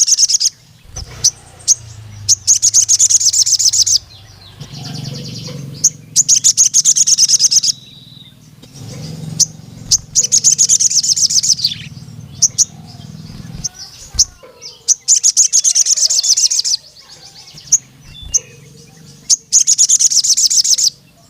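Crimson sunbird (sogon) singing: loud, rapid, high trills of about one to two seconds each, repeated every few seconds, with short sharp chirps in between. This is the long, rolling 'nembak' song keepers use to call up and challenge rival males.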